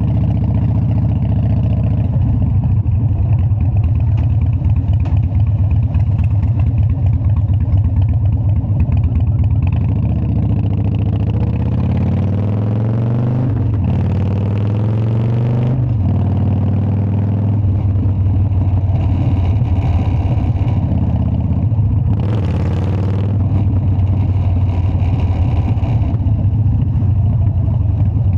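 Harley-Davidson Dyna's V-twin engine running, its pitch climbing as it is revved up around the middle and then dropping back. A brief hiss comes in about two-thirds of the way through.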